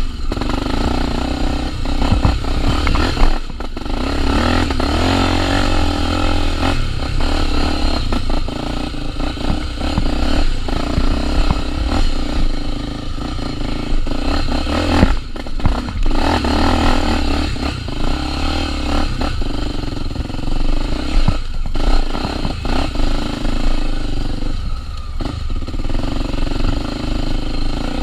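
Honda Tornado 250 single-cylinder four-stroke trail bike engine running under load off-road, the throttle opening and closing. The sound drops off briefly a few times as the throttle is shut.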